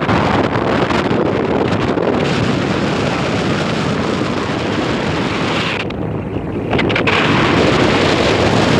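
Strong wind gusting and buffeting the microphone with a heavy rumble, easing briefly about six seconds in before picking up again.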